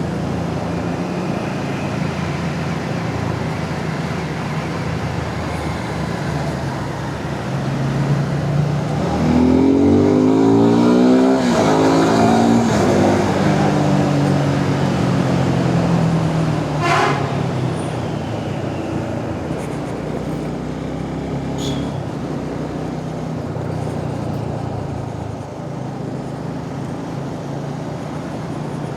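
Motorcycle engine running at road speed with wind rushing over the helmet microphone. The engine note rises and gets louder about a third of the way through, then settles back to a steady cruise.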